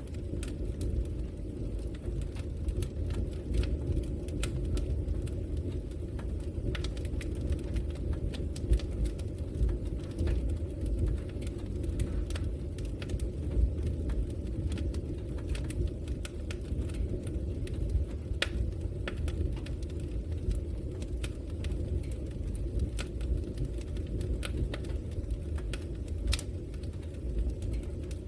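Logs burning in a fireplace: a steady low rumble of the fire, with frequent sharp crackles and pops scattered irregularly throughout.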